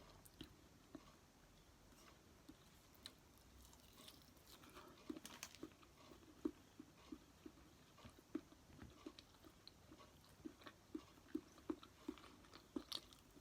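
Quiet close-miked chewing of sushi: soft wet mouth clicks and smacks, sparse at first, then about two a second from about four seconds in.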